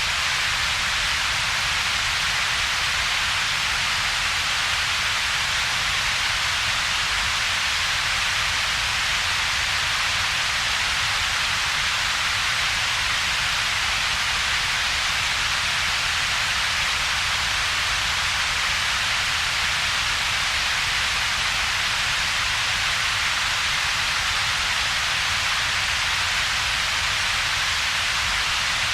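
Steady synthetic double-peaked coloured noise: a bright hiss centred in the upper mid range together with a weaker low rumble, with a hollow between them. It holds perfectly even, with no change.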